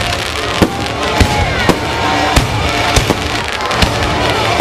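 Aerial fireworks display: shells bursting with sharp bangs, about seven of them at uneven half-second intervals, over a continuous dense crackle and hiss.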